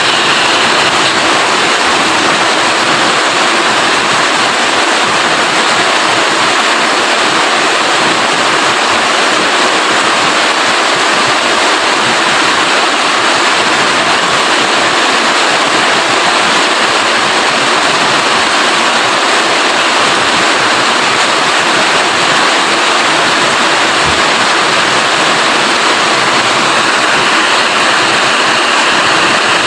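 Steady heavy rain, a dense even hiss of drops with no letup.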